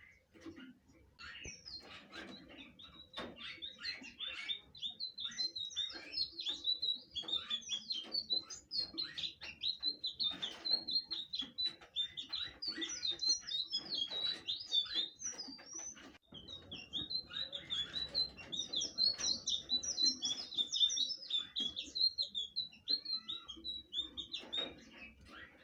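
Blue flycatcher (sikatan biru) singing vigorously: a long, rapid run of high chirps, trills and warbles, broken by a short pause about sixteen seconds in before it resumes.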